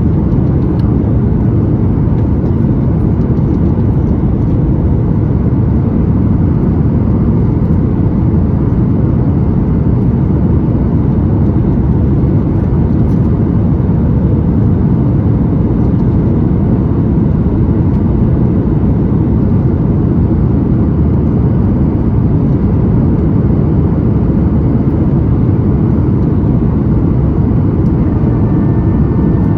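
Steady cabin noise of a Boeing 737-9 MAX airliner: an even, loud low rumble of its CFM LEAP-1B engines and airflow, heard from inside the cabin.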